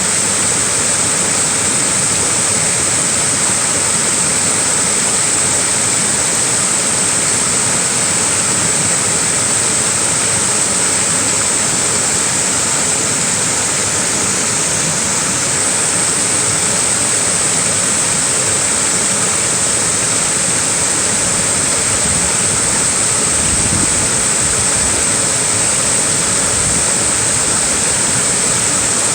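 Small waterfall, a steady, even rush of falling water with a bright hiss on top.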